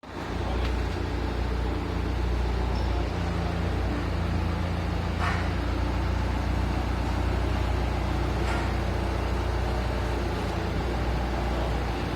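Truck engine running steadily with a low, even drone and a haze of road or engine noise.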